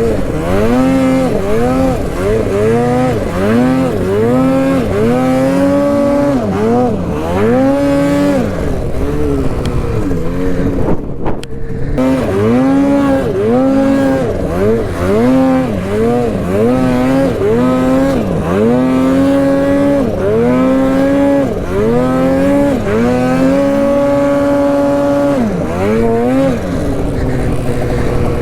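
Snowmobile engine working hard in deep snow, its pitch rising and falling with the throttle about once a second. The throttle is let off briefly about eleven seconds in, held high for a second or two near the end, then dropped back to a lower steady note.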